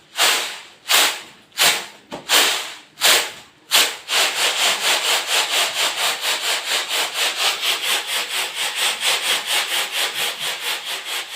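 Rhythmic scraping strokes, slow at first, about one every 0.7 seconds, then quickening about four seconds in to a steady run of about five a second.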